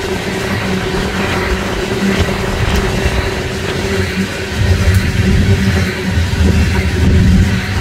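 Loaded coal train's hopper cars rolling along the rails: a steady rumble with a faint steady hum, the low rumble getting louder about halfway through.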